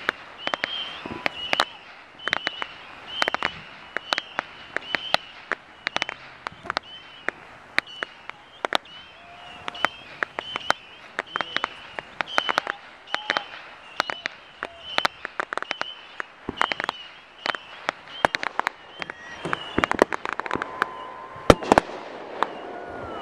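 Fireworks going off in a rapid, irregular string of sharp cracks and pops, some in quick clusters, with the loudest bangs near the end.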